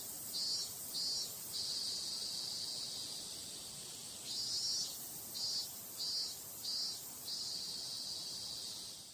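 Cicadas singing: a dense high-pitched buzz with a pulsing call repeating over it in two runs, fading out at the end.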